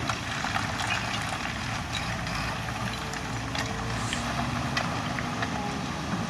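Engine of heavy earthmoving machinery running steadily, with a few short clicks over it.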